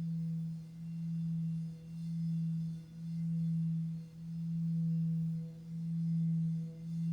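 Tibetan singing bowl sounding a sustained low tone that swells and dips evenly about once a second, with fainter higher overtones above it.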